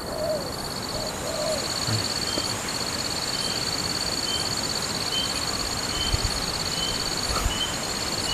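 Spotted dove cooing: two short, low hooting notes about a second apart near the start, over a steady high insect drone with faint regular chirps.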